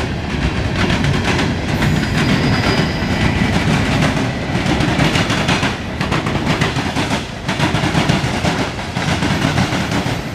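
Mixed freight train passing, its cars rolling by in a steady loud rumble with rapid wheel clicks over the rail joints.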